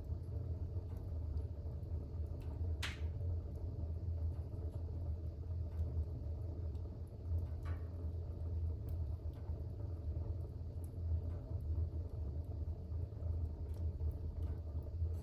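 Fire burning in a fireplace: a steady low rumble with scattered faint crackles, a sharper pop about three seconds in and a smaller one near eight seconds.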